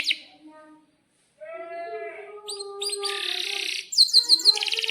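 Domestic canary singing: a trill fades out, a brief pause, then a new song phrase of varied gliding notes and a buzzy stretch that runs into fast, rapidly repeated trills near the end.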